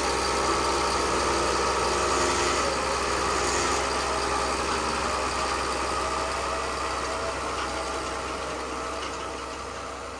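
Radio-controlled model construction machine running with a steady, engine-like mechanical drone, fading out gradually near the end.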